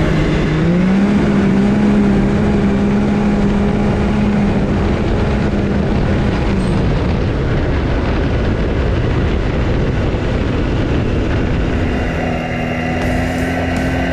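Side-by-side UTV engine under way on a gravel rail-bed trail, over a steady rush of tyre and driving noise. The engine note rises under throttle about half a second in and holds, eases off around six seconds in, then settles into a steady note again near the end.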